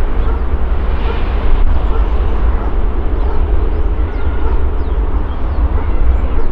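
Jet engine noise of an Airbus A321 taking off: a loud, steady rumble with a deep low end.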